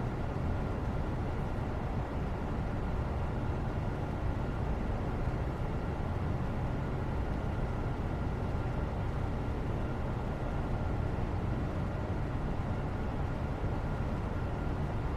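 Steady low background noise, an even rumble with faint steady hums above it, unchanging throughout.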